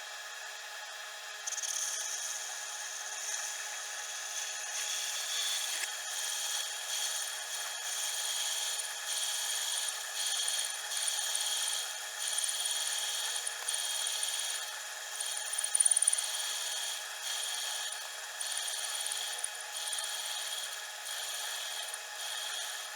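A fishing reel spool being filed by hand to bore it out and correct the reel's faulty line winding: rasping strokes, about one a second, with one louder stroke past the middle.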